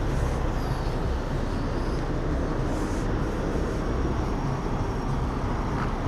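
Steady low rumble of road traffic and vehicles at a highway truck stop, even in loudness throughout.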